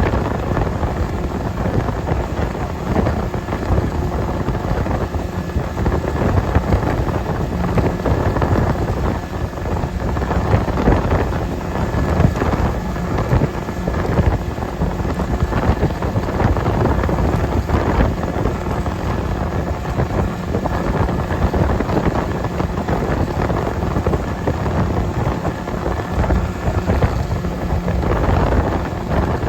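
Heavy wind buffeting the microphone, with rushing water and spray, during a fast ride on a towed banana boat. It is a steady, loud rumble that never drops out.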